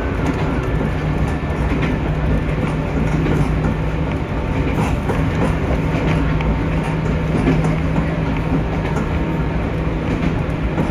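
Local train running along the track, heard from inside the carriage: a steady rumble of wheels and car with a low steady hum.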